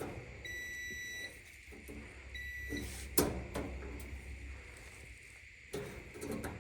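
Multimeter continuity beep sounding twice, a longer beep about half a second in and a shorter one around two and a half seconds, as the probes touch the dryer's heating element; the continuity shows the element is good. A couple of light clicks follow about three seconds in.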